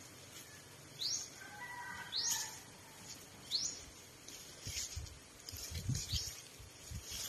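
A bird calling repeatedly, a short rising chirp about every second and a quarter, with a few fainter bird notes under it. Low thumps come in from about two-thirds of the way through.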